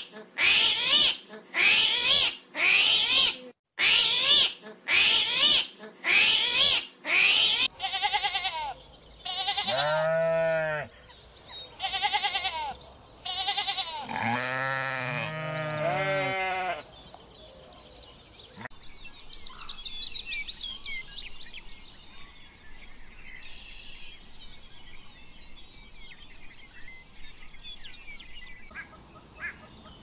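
A series of animal calls: a fast run of short, sharp calls about two a second, then, from about 8 seconds in, longer calls that rise and fall in pitch, and from about 17 seconds on, fainter high chirping and trilling.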